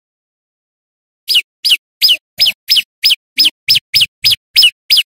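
A prenjak lumut (a prinia) calling: a loud, rapid series of about a dozen short, sharp notes, each sliding down in pitch, at roughly three a second, starting after about a second of silence.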